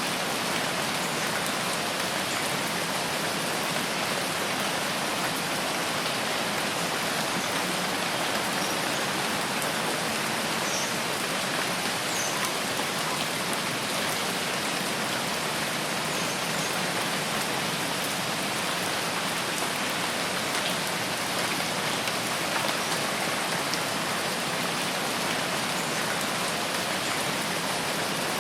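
Steady rain falling, an even, unbroken hiss of drops that neither swells nor fades.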